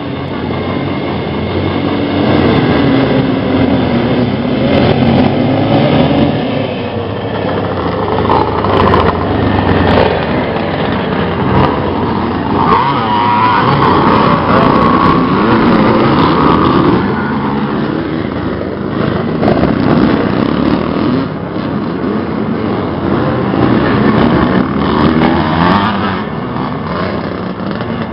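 Classic motocross motorcycle engines racing, revving up and down in pitch, with overlapping engine notes.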